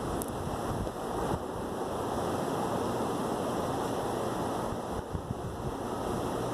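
Steady rain falling in a thunderstorm, a continuous even hiss.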